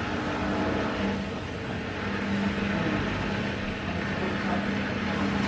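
Hoover H-Wash 300 Plus washing machine running, a steady mechanical hum with a constant low tone that drops out for a moment about a second and a half in.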